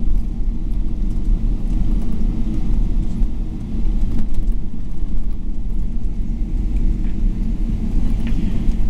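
Steady low rumble inside the cabin of a Boeing 777-300ER rolling on the ground after landing: engine and wheel noise.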